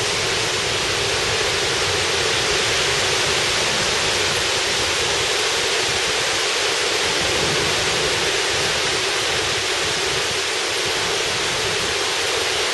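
Heavy thunderstorm downpour: torrential rain falling in a steady, even hiss.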